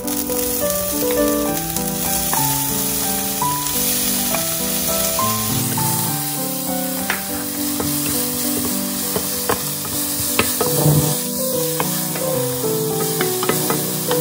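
Chopped onion, scallion and chili dropped into hot oil in a nonstick wok and sizzling, with a wooden spatula scraping and tapping the pan as they are stirred from about halfway through. Background piano music plays under it.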